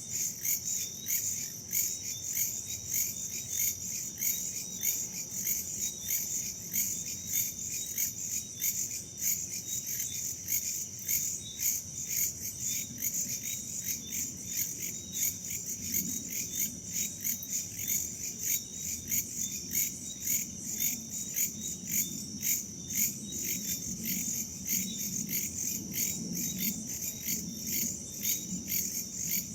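Crickets and other insects chirping in a continuous, even pulse, with a low rumble of wind that grows a little in the second half.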